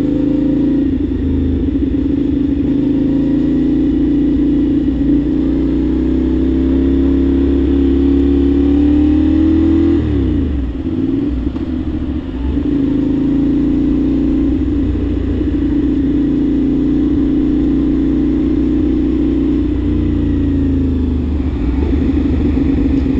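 CFMOTO 450SR's 449 cc parallel-twin engine running at steady cruising revs under the rider, with wind and road noise. About ten seconds in the revs drop sharply and climb back, a throttle lift and pick-up or a gear change.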